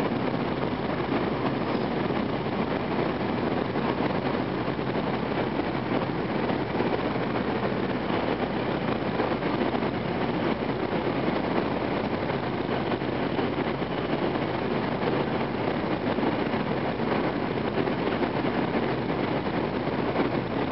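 Interior running noise of an N700 series Shinkansen passenger car: a steady rushing rumble that holds an even level throughout.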